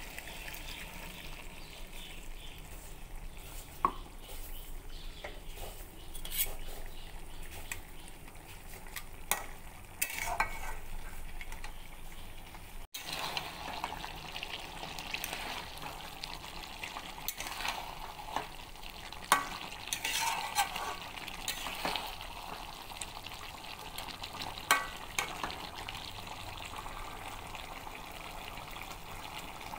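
Chicken curry frying in an aluminium pot with a steady sizzle, while a spoon stirs it, scraping and clinking against the pot every few seconds.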